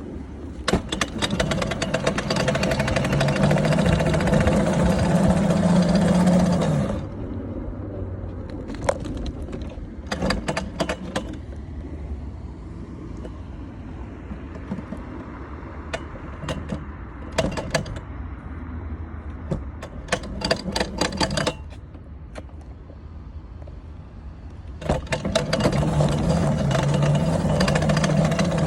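Dirt bike being ridden, under throttle for the first several seconds. It then drops to a quieter, lower running with scattered clicks and rattles, and opens up again near the end.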